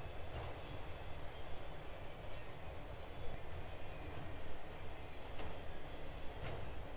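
Freight train rolling past: a steady rumble of the cars with a few sharp clicks from the wheels.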